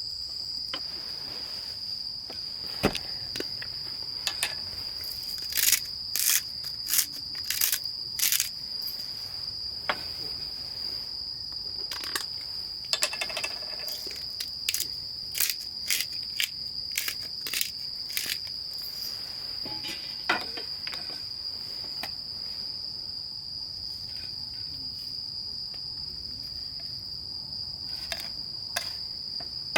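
Insects, crickets or similar, trilling steadily on one high note, with a series of sharp clicks and knocks, most of them bunched a few seconds in and more scattered later.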